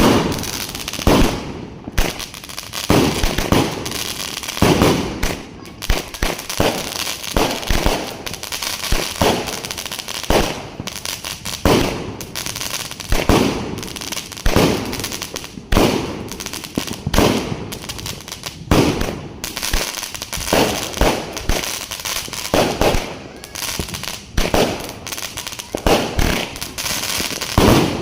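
A 36-shot firework cake firing shot after shot: a steady run of loud bangs, about one to two a second, each trailing off before the next.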